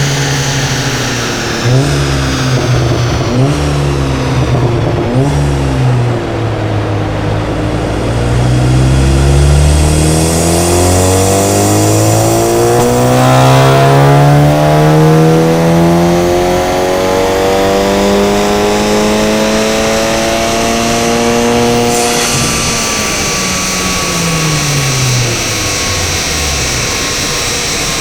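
Volkswagen Golf VII GTI TCR's Stage 2 tuned, turbocharged 2.0 TSI four-cylinder through an Armytrix exhaust, on a dyno run: a few short rises in revs that drop off suddenly, then one long steady climb in revs lasting about fourteen seconds. About two thirds of the way through there is a sharp crack as the throttle closes, and the revs fall away.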